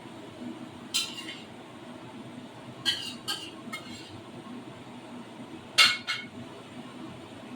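Dishes and cutlery clinking: about six short, sharp knocks of kitchenware against plates or pots, the loudest about six seconds in.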